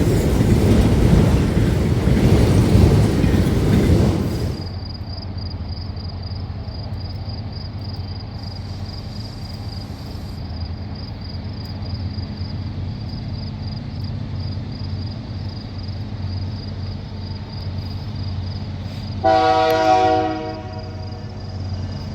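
Train passing with a loud, even rumble, which cuts off abruptly about four and a half seconds in. A locomotive's diesel engine then runs with a steady low hum, and a short train horn blast sounds once near the end.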